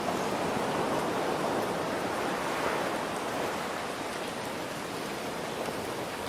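Steady rain hiss mixed with ocean surf; a wave swells and washes in over the first three seconds or so, then eases back.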